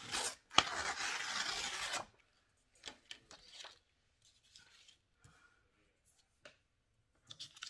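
A sheet of marble-patterned craft paper torn by hand in one long rip of about a second and a half, starting with a sharp snap. A few faint paper rustles follow.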